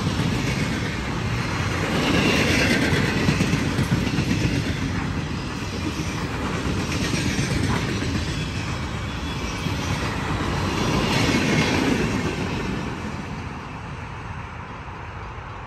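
Empty freight train flatcars rolling past, their wheels clattering over the rail joints, with a louder swell every four to five seconds. The sound fades away near the end.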